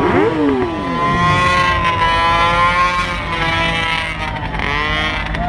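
Sport motorcycle engines revving hard: quick blips up and down at the start, then held at high revs for about two seconds before easing off, over a steady low engine hum.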